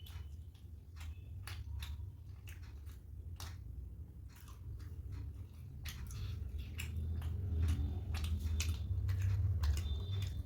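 Close-up wet chewing and mouth clicks of someone eating soft poori with spicy potato and chickpea curry. The smacks come irregularly, several a second, and grow more frequent and a little louder about halfway through.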